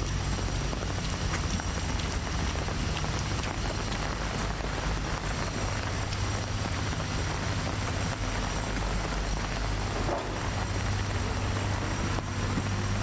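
Steady outdoor background noise: a low rumble with an even hiss over it and a few faint ticks.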